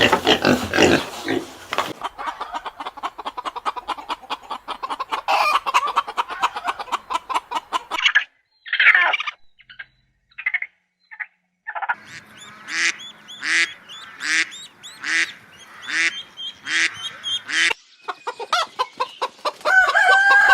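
A run of farmyard calls in succession, mostly poultry. A pig grunts briefly at the start; then a flock chatters, and a string of loud calls repeats about once a second. Hens cluck near the end as a rooster begins to crow.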